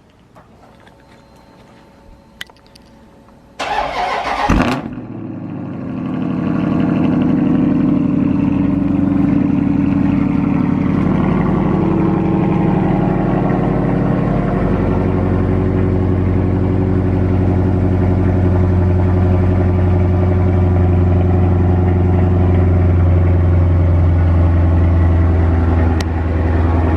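Dodge Charger Scat Pack's 392 HEMI V8, mufflers deleted, starting up: after a few quiet seconds with faint clicks, a loud burst at the start about four seconds in, then a loud, steady idle whose low rumble grows fuller about halfway through.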